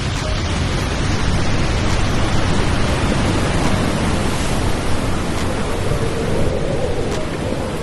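Steady roar of falling water from Madakaripura waterfall.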